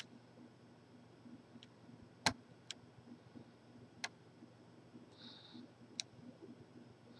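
Lock-picking tools working in a large Corbin padlock: about five scattered sharp clicks, the loudest a little over two seconds in, with a short scratch about five seconds in.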